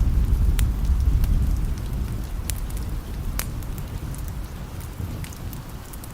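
Steady rain with a low rumble of thunder that dies away over the first few seconds, and a few sharp crackles from a wood fire scattered through it.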